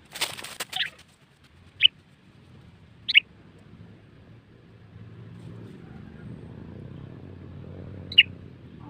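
Sooty-headed bulbul giving three short, sharp calls, spaced irregularly, after a brief clattering rustle at the start, over a faint low rumble.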